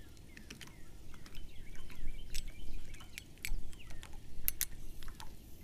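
Small birds chirping in short downward-sliding notes, with scattered sharp clicks and snaps throughout.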